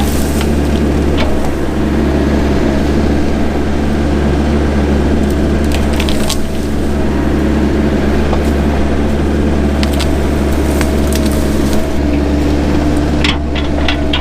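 Mini excavator engine running steadily while the machine breaks through underbrush, with scattered crackling and snapping of brush and branches, several in quick succession near the end.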